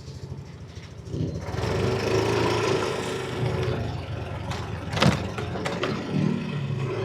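Yamaha NMAX V3 scooter's single-cylinder engine running low, then pulling away as the throttle opens about a second in and carrying on under way. A sharp knock about five seconds in.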